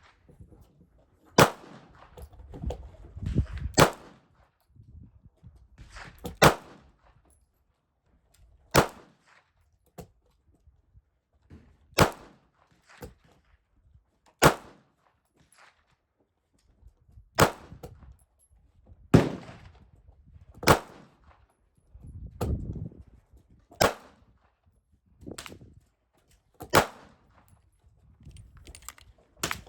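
Single gunshots fired one at a time, about a dozen, spaced a second to three apart, each with a short ringing tail.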